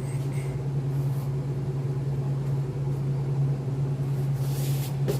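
Welding machine running with a steady low hum, idling ready for a tack weld. A brief hiss comes near the end.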